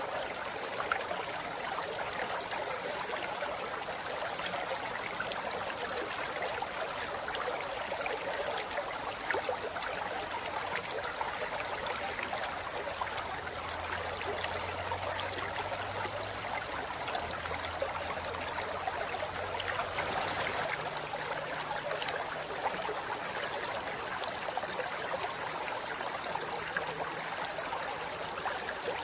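River water flowing over rocks in a steady, even rush of babbling water.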